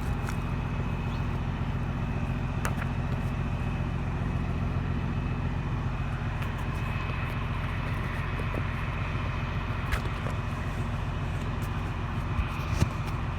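Steady low hum of an idling engine, with a few faint clicks of handling.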